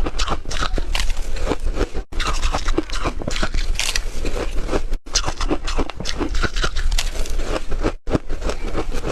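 Hard, refrozen ice being chewed close to the microphone: a dense run of loud crunches and cracks, broken by short gaps about every three seconds.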